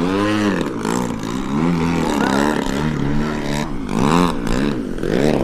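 Radio-controlled helicopter flying fast aerobatic manoeuvres: its rotor and motor buzz swoops up and down in pitch over and over as it changes direction.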